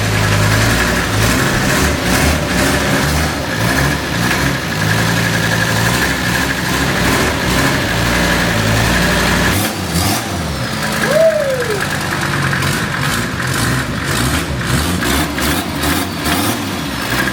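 Mercedes OM617 turbo five-cylinder diesel turning over and trying to fire, hard to start, which the crew suspects comes from the injection pump not being advanced enough. A short squeak comes a little past halfway.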